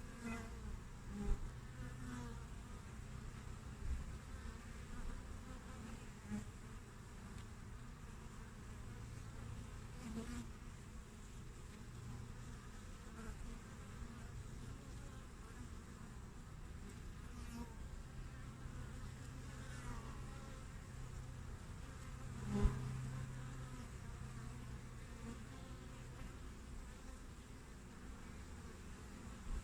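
Honeybees (Apis mellifera) buzzing at a hive entrance: a steady hum of many bees, with single bees now and then flying close past in brief louder buzzes, the loudest about two-thirds of the way through.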